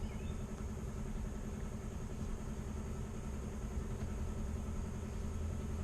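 Volkswagen 2.0-litre AEG four-cylinder engine idling steadily, a low even hum.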